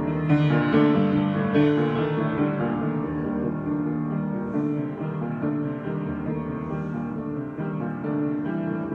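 Piano being played in a slow, sustained improvisation. Chords ring on, with a few notes struck in the first couple of seconds, and the playing then eases slightly in loudness.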